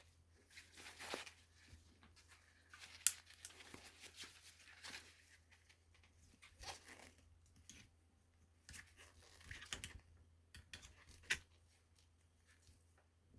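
Close hand work: irregular rustling, scraping and crinkling, with sharp clicks about three seconds in and again near the end.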